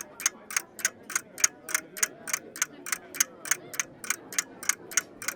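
Clock ticking in a fast, even rhythm, about three and a half ticks a second.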